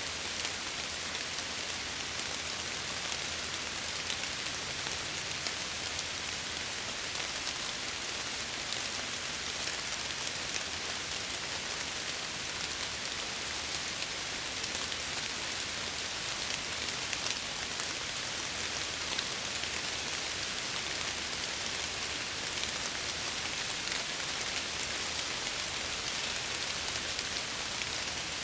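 Steady rain against window glass: an even hiss sprinkled with countless small drop taps, without pauses or thunder.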